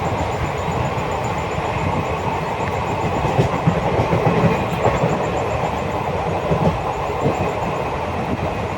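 Express passenger train running at speed, heard from on board: a steady rumble of wheels on rails with scattered clicks and knocks over the rail joints.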